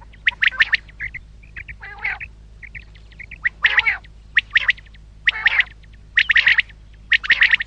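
Common quail calling: short bursts of several quick notes, centred high in pitch, repeating about once a second, with softer single notes in between.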